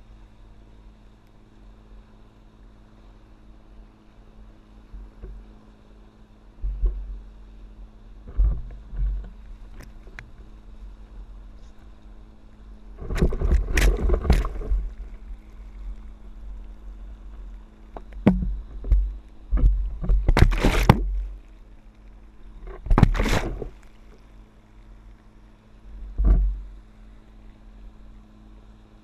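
Water splashing and rushing in several loud bursts as a paddleboard rides boat wake waves, with low thumps of wind on the microphone, over a steady low hum.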